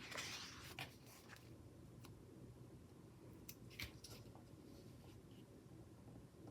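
Near silence with a few faint, scattered ticks and clicks of paper flag stickers being handled and pressed onto a planner page.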